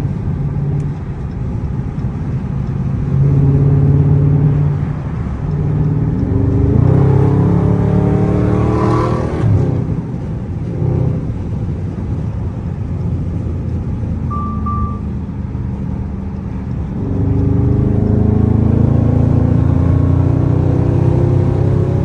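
Dodge Charger Scat Pack's 6.4-litre HEMI V8 exhaust with a mid-muffler delete, under hard driving: it climbs in pitch as the car accelerates about a third of the way in, settles to a steadier drone, then rises and gets louder again under acceleration near the end. A short beep sounds partway through.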